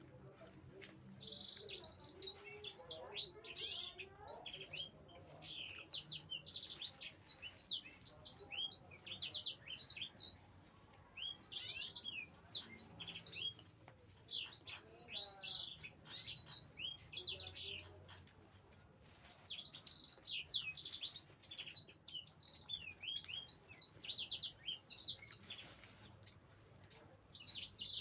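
Small birds chirping busily in quick runs of short, high, falling chirps, broken by a few brief lulls.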